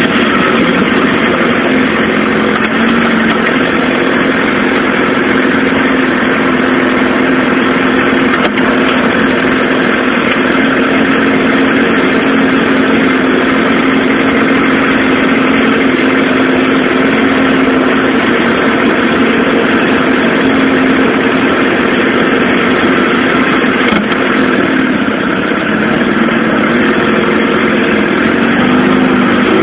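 Suzuki GSX-R SRAD inline-four engine running at a steady, idle-like engine speed in traffic, its note shifting in pitch near the end.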